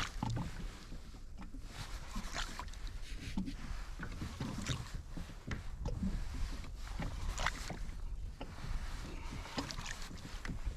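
Water lapping against a kayak hull, with irregular small knocks and clicks of gear on the boat over a low rumble.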